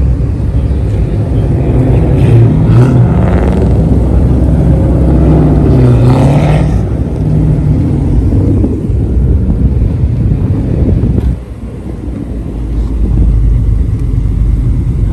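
Dodge Durango Hellcat's supercharged 6.2-litre V8 running loud, its pitch rising and falling as it is revved, dropping off briefly about eleven seconds in and then building again.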